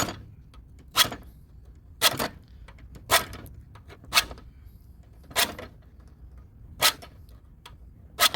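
Hand file rasping on metal in slow, even strokes, about one a second: filing down the bent tabs at the tip of a Kenmore washing machine's drive shaft, the tabs that grip the drive block.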